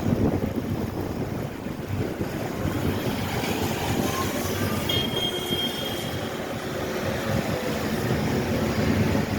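Snowplow trucks running and pushing snow, a steady low rumble mixed with wind on the microphone, with a brief high squeal about five seconds in.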